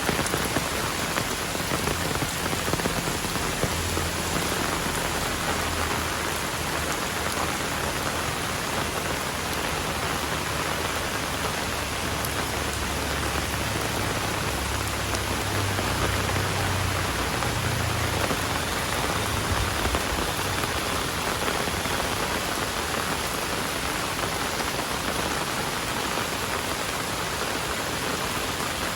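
Heavy rain falling steadily in a dense, even hiss of drops. A low rumble runs underneath for much of the first two-thirds, then fades.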